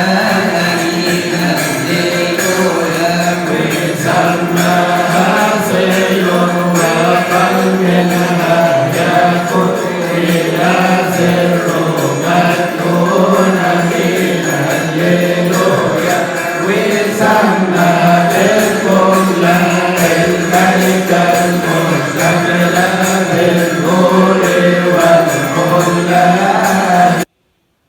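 Coptic devotional hymn music: a wavering chanted melody over a steady low drone, with light jingling percussion. It cuts off abruptly near the end.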